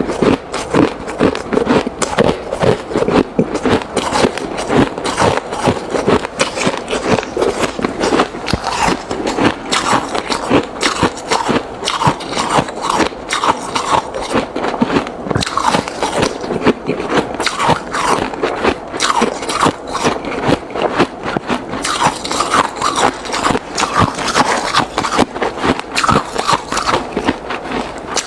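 Ice being chewed close to the microphone: a steady run of crunches, a few each second.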